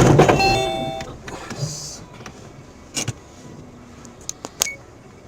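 A loud crash impact at the very start, typical of a road collision, dies away over about a second with brief ringing tones. A few scattered sharp knocks and clicks follow.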